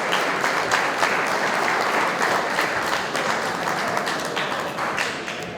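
A crowd applauding, thinning out near the end.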